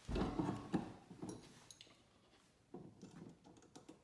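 Knocks and clicks of a spider handle being slid onto a composting toilet's agitator shaft, with a few louder knocks in the first second and lighter taps after.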